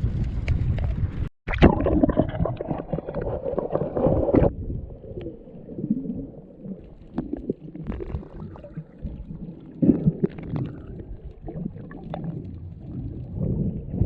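Muffled underwater sound as heard by a submerged camera: low rumbling and gurgling water with scattered small clicks and pops. About a second in, the sound cuts out briefly before the muffled rumble takes over.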